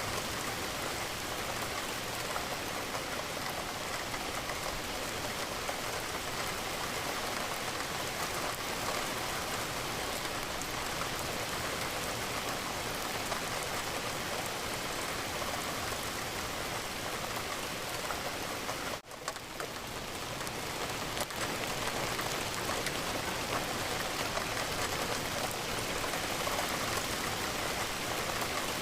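Steady rain falling against a window, an even wash of drops. About two-thirds of the way in it cuts out for an instant, then fades back up over a second or two, like a seam in a looped recording.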